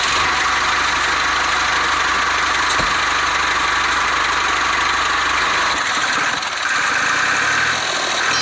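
Small motor of a homemade miniature chaff cutter or tractor running steadily with a fast, even rattle. The sound shifts in pitch about six seconds in.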